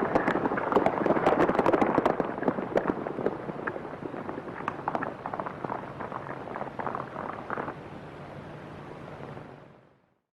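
Horses galloping: a rapid, irregular clatter of hoofbeats from several riders on an old film soundtrack, loudest at first, thinning out and then fading away near the end.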